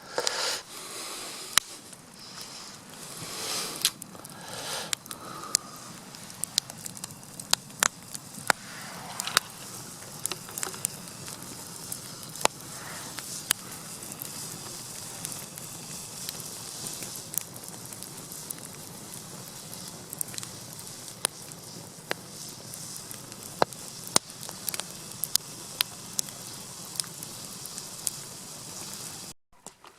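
Wood campfire crackling, with irregular sharp pops and snaps over a steady hiss of burning.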